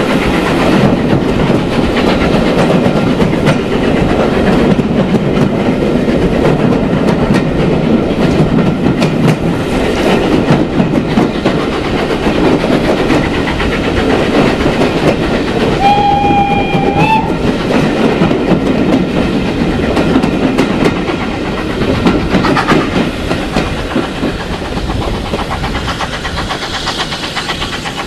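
Loud, steady rumble and clatter of a passenger train's wheels on the rails through a tunnel, heard from a carriage window. About sixteen seconds in the locomotive gives one short whistle. The noise eases near the end as the train comes out into the open.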